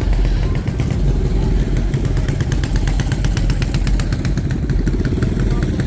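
A vehicle engine running close by with a heavy rumble. From about two seconds in, a fast, even rattle rises over it.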